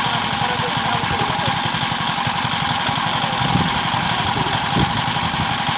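Truck engine idling steadily with an even, rapid low beat, and two dull knocks in the second half.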